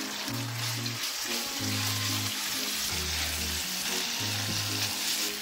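Diced chicken sizzling in hot oil in a frying pan, a steady hiss, under background music with a repeating bass line.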